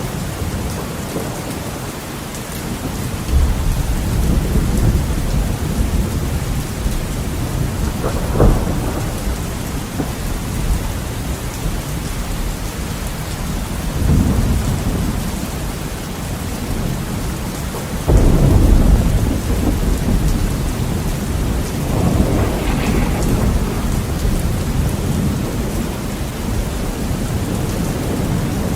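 Heavy rain pattering steadily on a window, with several rolls of thunder rumbling through it; the loudest thunder breaks suddenly past the middle and rumbles on for several seconds.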